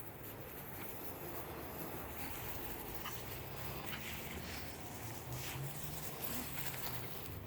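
Faint sounds of two dogs playing: scattered light scuffles and snuffles, over a low steady hum.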